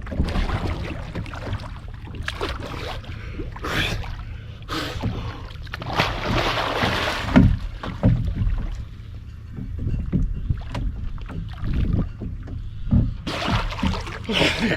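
Water splashing and sloshing irregularly around a person swimming beside a capsized kayak and ducking under to search for lost gear, over a steady low rumble on the action-camera microphone. The busiest splashing comes about halfway through.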